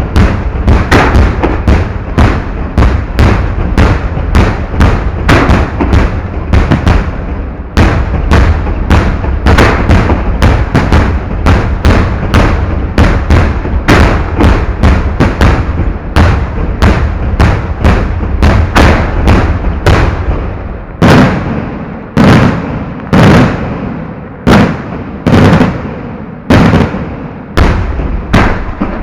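Fireworks display heard close to the firing site: loud bangs in rapid succession, two or three a second, for about the first twenty seconds. After that the bangs come more spaced out, roughly one a second, each with a short rumbling tail.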